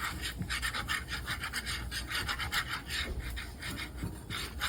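Wire whisk scraping rapidly against the bottom of a skillet, stirring flour into the pan for a gravy roux, in a quick run of short rasping strokes.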